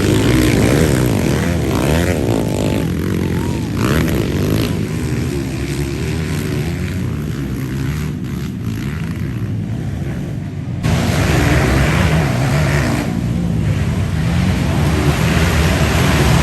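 Motocross dirt bike engines running and revving, the pitch rising and falling over the first few seconds. The sound drops back about five seconds in and jumps abruptly louder again about eleven seconds in.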